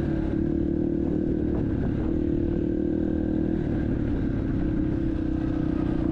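Motorcycle engine running at a steady cruising speed, a continuous drone with no change in revs.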